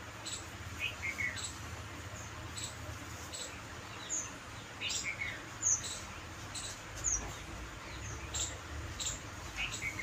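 Small birds chirping in the background: short, high chirps repeating throughout, and a brief falling phrase that comes back about every four to five seconds.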